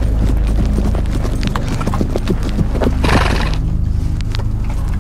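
Horse hooves clopping irregularly, with a short loud noisy blast from the horse about three seconds in, over a steady low drone.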